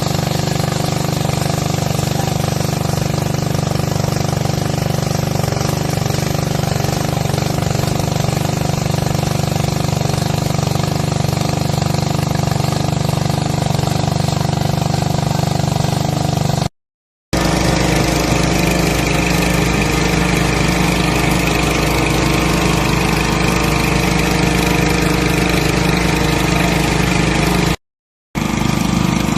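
Engine running steadily at a constant speed. It cuts out abruptly twice for about half a second, and after the first break a different engine note follows.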